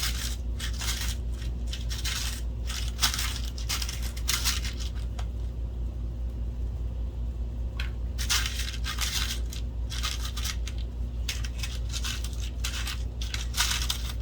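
Loose metal screws clinking and rattling as they are rummaged through in a bin, in bursts with a quieter pause in the middle.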